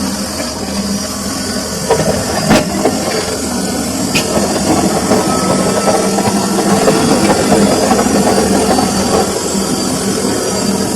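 Samsung washing machine running with a steady hum and churning noise, with a few sharp knocks or clicks about two to four seconds in.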